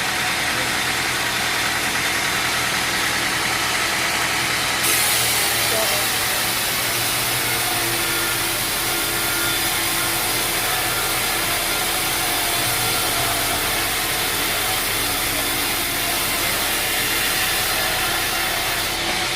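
Sawmill machinery running steadily. A brighter hiss comes in suddenly about five seconds in and drops away near the end.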